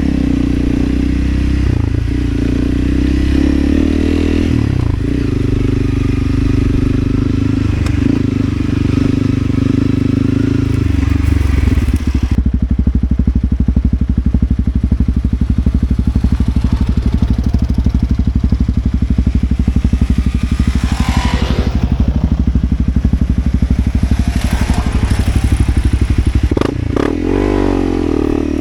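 Motorcycle engine running steadily as the bike rides along. About twelve seconds in, the engine note drops lower and the high hiss falls away. Near the end the pitch rises and falls as the throttle changes.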